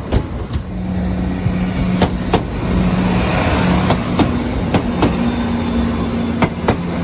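A train rolling past over the level crossing, its wheels clacking over the rail joints in sharp knocks every second or so, over a steady low engine hum and rumble.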